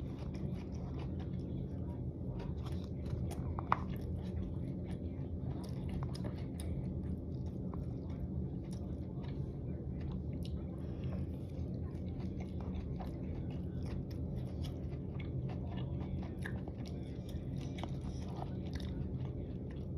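Close-up chewing and crunching of mouthfuls of dry hot pot, with many small clicks and mouth sounds and one sharper click about four seconds in. A steady low hum runs underneath.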